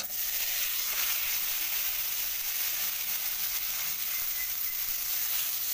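Chopped tomatoes dropped into hot oil in a kadhai, bursting into a loud sizzle at once and then frying with a steady sizzle.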